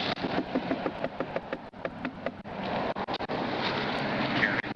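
Rustling and scuffing with many short knocks and clicks: an officer moving down through brush with a body-worn camera.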